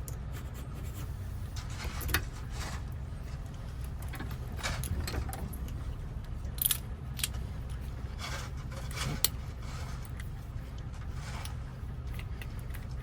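Small metallic clicks and scrapes of a key being worked in and turned in a Toyota door lock cylinder as its wafers are fitted, a handful of separate strokes over a steady low hum.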